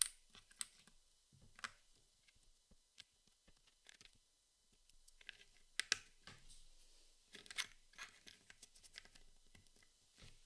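Cardboard jigsaw puzzle pieces being handled: scattered light clicks, with a few brief scratchy rustles about halfway through and again a couple of seconds later.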